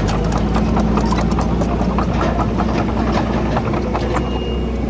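Heavy diesel engine of earthmoving machinery running steadily, with frequent small clanks and rattles over it. A short high beep sounds near the end.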